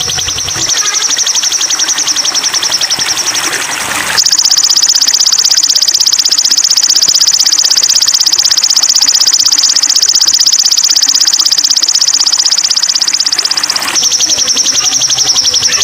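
Little spiderhunter (sogok ontong) song: a high, very rapid trill of repeated notes, running on without a break. From about four seconds in until near the end it is louder and slightly higher.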